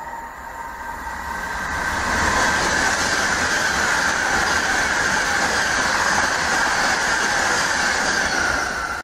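Virgin Class 390 Pendolino electric express train passing at speed: a loud rush of wheels on rail that builds over the first couple of seconds and holds. A high whine runs over it and slowly falls in pitch, and the sound cuts off suddenly at the end.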